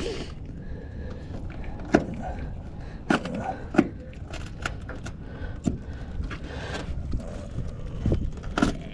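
Scattered knocks, clicks and scrapes of gear being handled in a small aluminum two-man boat, about five sharp knocks over a steady low rumble of wind and water.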